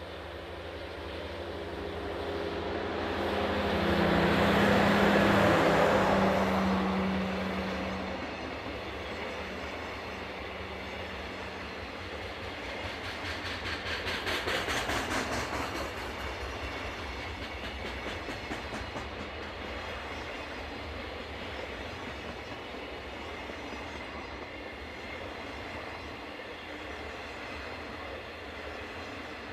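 A diesel-hauled freight train passing close by. A steady locomotive engine drone is loudest about five seconds in. Wheels then clatter rhythmically over rail joints, peaking around fourteen seconds, and a steady rolling of wagons follows.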